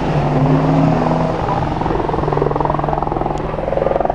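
Engine running with a steady drone and a fast, even pulsing, its pitch stepping slightly about two seconds in.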